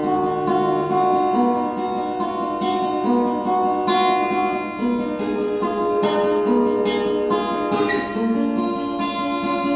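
Acoustic guitar played alone, picked chords ringing on one after another at an even pace.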